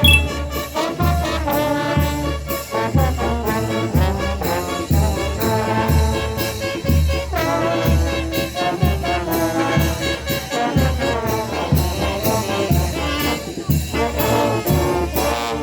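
Brass band playing, with a bass drum and cymbals keeping a steady beat of about two strokes a second. The music breaks off at the end.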